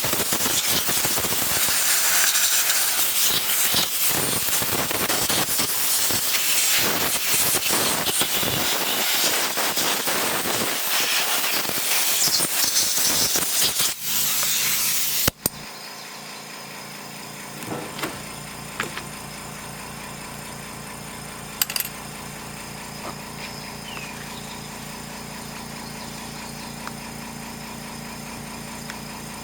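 Compressed air blowing in a loud hiss, fluttering as the nozzle is worked over a chainsaw to clean it. It cuts off suddenly about halfway through, leaving a quieter steady machine hum with a few light clicks.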